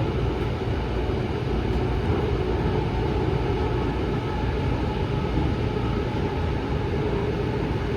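Steady running noise of a light rail train heard from inside the car: a low rumble with a faint hum over it while it travels at speed.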